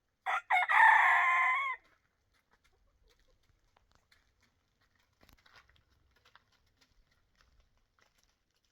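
A rooster crowing once: a short opening note, then a drawn-out call of about a second and a half that bends at the end. Faint light taps follow.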